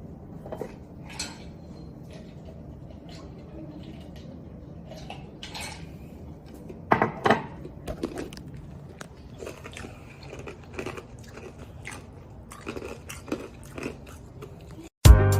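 A person biting and chewing food close to the microphone, with small crunches and clicks scattered through; music starts abruptly near the end.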